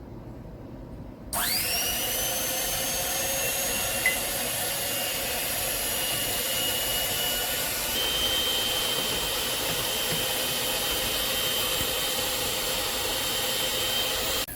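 Electric hand beater whipping cream: the motor starts about a second in with a quick rising whine, runs steadily at high speed, and cuts off near the end.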